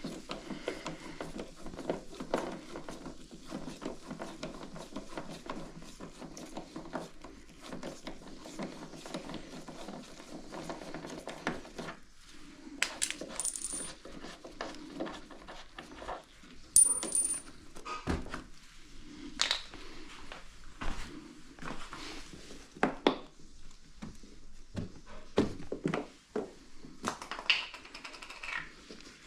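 Handling and work noises: irregular light knocks, clicks and rustling, with two short metallic clinks that ring briefly, about 13 and 17 seconds in.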